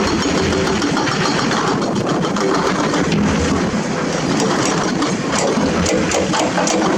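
Diesel engines of heavy construction machinery (excavators and dump trucks) running steadily, with scattered sharp clicks over the engine hum.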